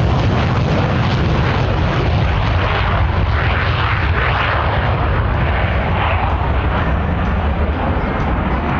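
F-16 fighter jet engine running at high power: a loud, steady jet noise with a deep rumble underneath, holding level throughout.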